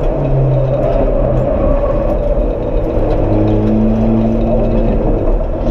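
Peugeot 206 rally car's four-cylinder engine heard from inside the stripped cabin, running hard over constant road and tyre rumble. The engine note drops and holds steadier from about three seconds in.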